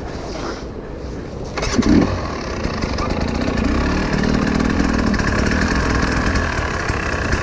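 Enduro motorcycle engine running, coming in sharply about a second and a half in after wind noise, its pitch rising and falling for a few seconds before settling to a steady run.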